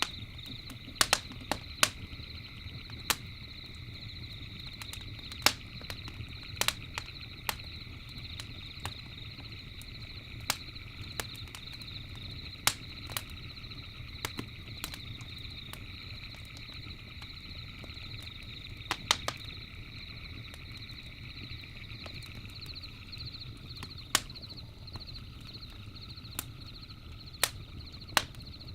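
Campfire crackling, with irregular sharp pops scattered through over a low steady rumble of the fire. Behind it runs a steady high chirring chorus of night animals, one strand of which stops about four-fifths of the way through.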